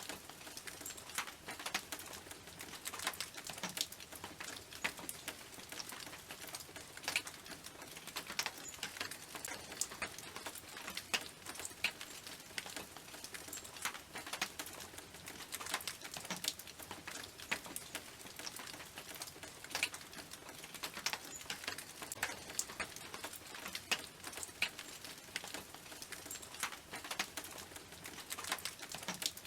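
Rain falling on a tin roof: a dense, irregular patter of sharp drop ticks.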